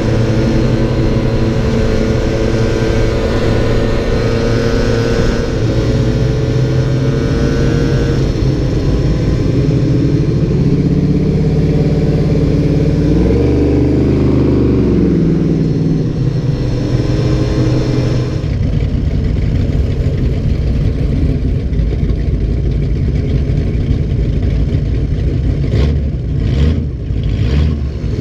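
Car engines running loudly, with one rising and then falling in pitch about halfway through as it revs or passes.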